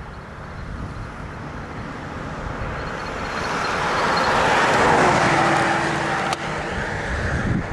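A vehicle passing on the road: tyre noise builds steadily to a peak about five seconds in, then eases off.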